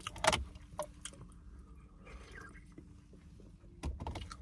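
A person chewing a mouthful of burrito with the mouth closed: a few soft wet clicks and smacks near the start and again near the end, quiet in between. A faint steady hum runs underneath.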